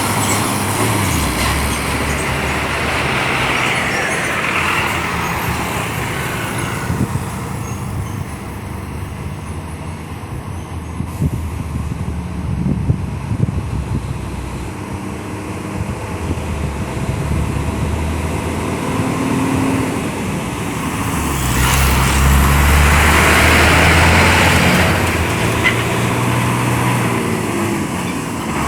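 Heavy laden diesel trucks labouring slowly up a steep grade in low gear, their engines running under load. The engine noise is loud at the start, drops in the middle as a truck moves off, and swells again from about 21 s as the next one approaches.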